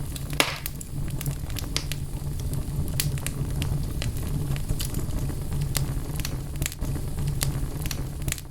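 Wood fire in a fireplace crackling, with irregular sharp pops over a steady low rumble of flames; one louder pop about half a second in.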